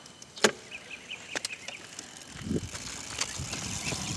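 Razor electric mini dirt bike being ridden: a few sharp clicks and rattles, the loudest about half a second in, with a short run of small high chirps, then a low rumbling noise from a little past two seconds.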